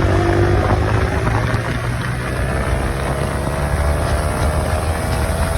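Single-cylinder sport motorcycle engine running at speed, its pitch climbing slowly as it pulls, with heavy wind rush over the microphone.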